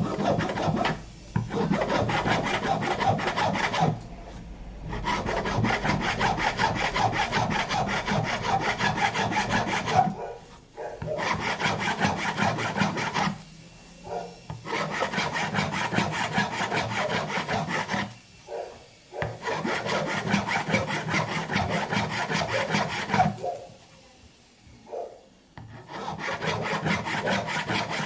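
A hand file rasping back and forth on a wooden door jamb in fast strokes, smoothing the glued repair. It comes in several long runs with short pauses between them.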